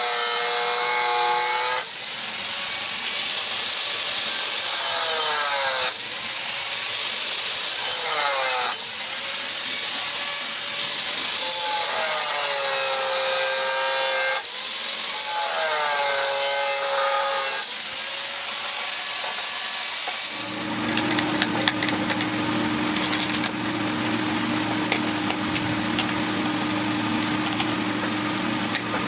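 Power grinder working steel, a strong hiss over a motor whose pitch dips and recovers as it bites in, in short clips cut together. About two-thirds in, a steadier motor hum with scattered crackles takes over.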